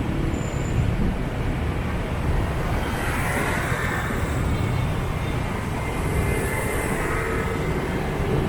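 City motorbike traffic heard from a moving scooter: a steady engine and road rumble with the hum of motorbikes all around. It grows louder for a moment about three seconds in and again around six seconds.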